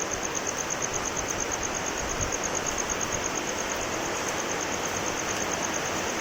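Steady rain falling, with a high-pitched insect chirp pulsing rapidly and evenly above it.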